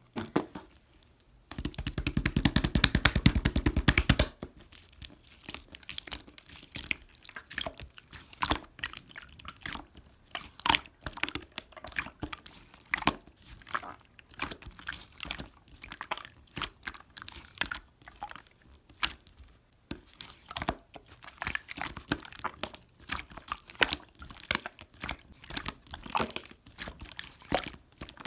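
Slime being pressed and squished by hand: a steady stream of sticky clicks, crackles and little pops. A loud, fast run of clicks comes about two seconds in and stops after a couple of seconds.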